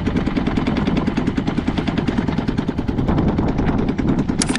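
Small boat's engine running with a rapid, even putt-putt of firing pulses. A short high-pitched tone sounds near the end.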